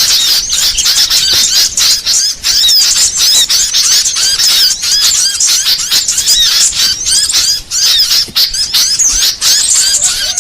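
Dense, nonstop chirping and chattering of small songbirds, a mix of many quick high notes that sweep up and down and overlap with no pauses, typical of a masteran recording used to train caged songbirds.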